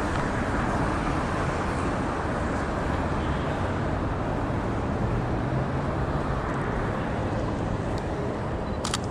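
Steady city street traffic noise, with a single sharp click near the end.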